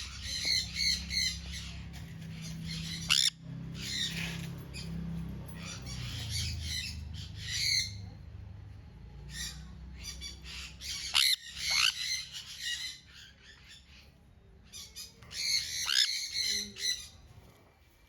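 Sun conures calling in shrill bursts, several bouts with pauses between, some of them fast runs of repeated notes.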